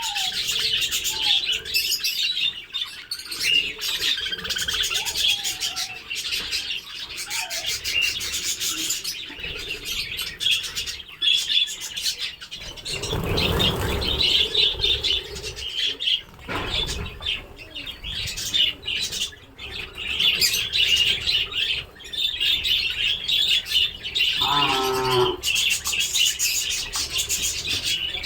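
A flock of budgerigars chattering and chirping without pause. There is a brief noisy burst about halfway through, and a short low pitched call near the end.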